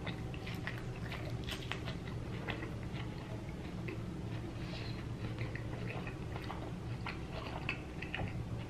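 Close-up chewing of a taco, with many small irregular crackling clicks from the food being bitten and chewed.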